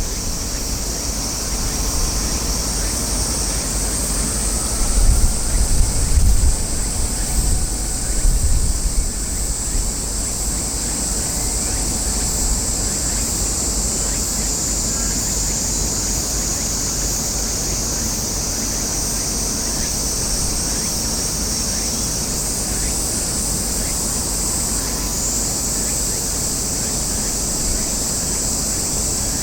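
A chorus of cicadas keeps up a high-pitched, steady shrilling, shifting slightly in pitch now and then. Wind rumbles on the microphone in a few gusts about five to nine seconds in.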